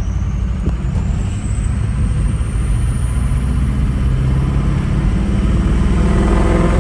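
Ford 6.0 Powerstroke turbo-diesel V8 with its muffler deleted, pulling under acceleration: a deep exhaust growl building slightly, with a turbo whistle that rises in pitch over the first few seconds and then holds as the turbo spools up.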